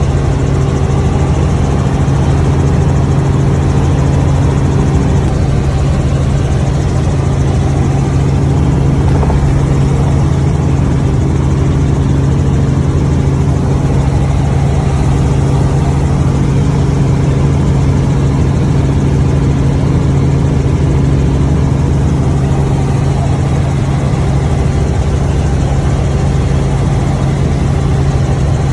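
A vehicle's engine running steadily, a constant low hum with a strong steady tone and no change in pitch or level.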